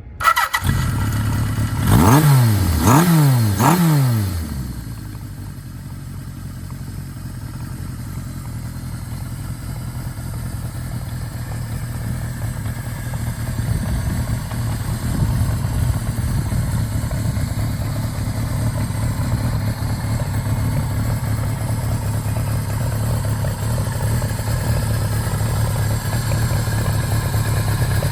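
Kawasaki Z1R's air-cooled inline-four motorcycle engine (Sanctuary RCM-241 build) starting up and being blipped three times in quick succession about two seconds in. It then settles into a steady idle.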